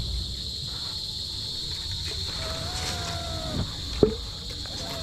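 Steady high-pitched chorus of crickets, with two faint drawn-out tones in the middle and near the end and a single sharp knock about four seconds in.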